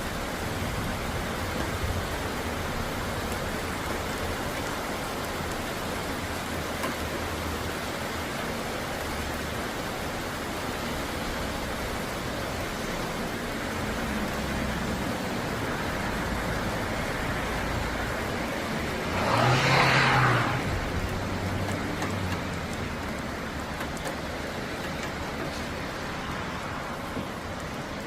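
Steady rain falling. About twenty seconds in, a vehicle passes on the wet road, a swell of tyre hiss and engine lasting about two seconds.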